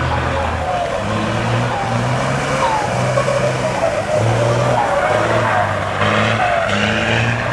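Truck engine revving hard in repeated short pulses, with tyres skidding and squealing as the truck drifts, and short rising squeals recurring throughout.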